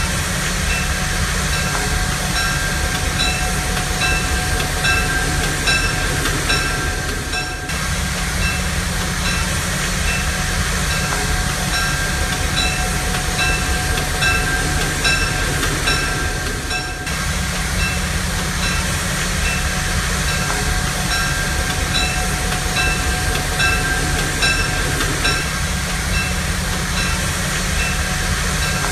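Steam-hauled train heard from an open-air passenger car behind a Shay geared locomotive: a steady low rumble of the cars rolling along, with a regular clicking about two beats a second.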